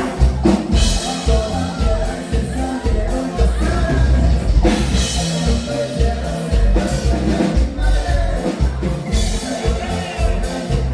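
Live norteño band playing a song, with a singer over a steady bass and drum beat.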